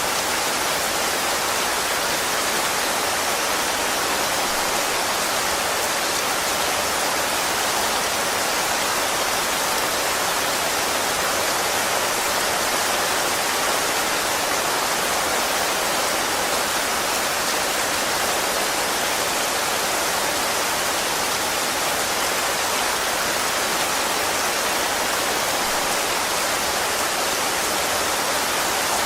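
Rain falling steadily, a dense, even hiss with no single drops or other sounds standing out.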